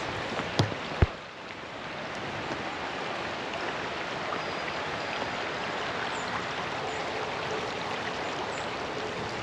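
Steady rushing of wind through forest trees on a very windy day. Two short knocks in the first second.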